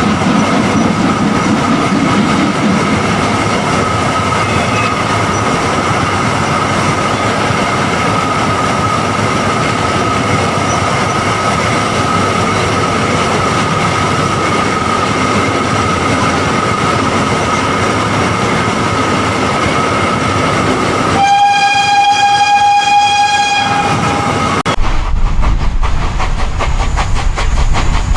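A train running with steady rolling rail noise. About 21 seconds in, a steam locomotive whistle sounds one long blast of about three and a half seconds. The sound then changes suddenly to a deep rumble with rapid, even ticking.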